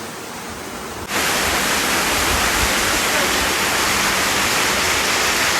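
Waterfall rushing in a steady roar of water, jumping abruptly louder about a second in.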